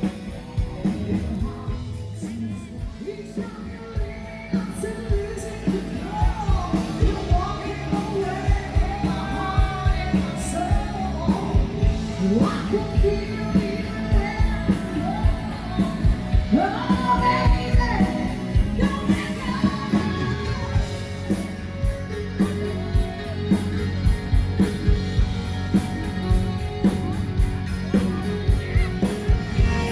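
Live band music with a steady drum beat and singing, with some shouting.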